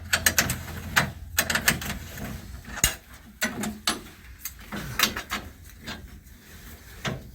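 Hand ratchet wrench clicking in short bursts of rapid clicks as a fastener is worked loose, over a steady low hum.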